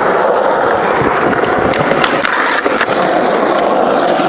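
Skateboard wheels rolling steadily, with several sharp clacks of the board.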